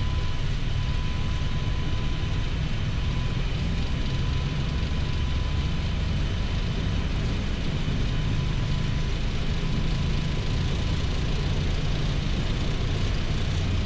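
Flight-deck noise of a Boeing 737 MAX 8 on its takeoff roll at takeoff thrust, between 80 knots and V1: a steady deep rumble from the CFM LEAP-1B engines and the wheels on the runway, with a hiss above it. A faint steady tone is heard in the first few seconds.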